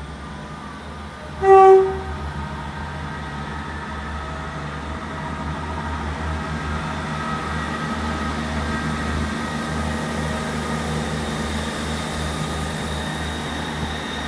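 A Class 158 diesel multiple unit sounds one short horn blast about a second and a half in. Its diesel engines then run steadily and slowly grow louder as the train moves.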